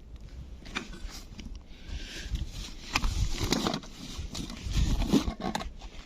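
Irregular scraping, rustling and crunching close to the microphone, with short clicks scattered through it.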